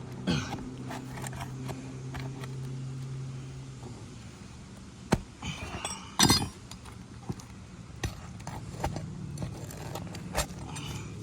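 Metal clinks, taps and scraping of a cat's paw nail puller prying roofing nails out from under brittle shingles, with a sharp, loud strike a little past halfway.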